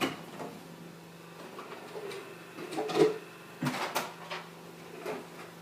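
Handling noises as things are fetched and moved: a run of separate knocks and clatters, loudest about three seconds in. Under them runs a faint steady low hum.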